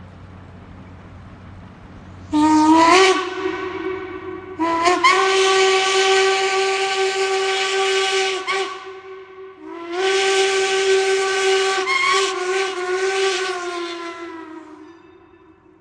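Steam locomotive whistle blowing three blasts, one short and two long, each sliding up slightly into a single steady note.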